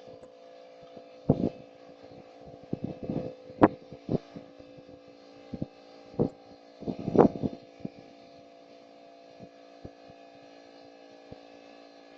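A steady mechanical hum of several held tones, with scattered knocks and clatters of something being handled; the sharpest knock comes about three and a half seconds in and a cluster of clatter at about seven seconds.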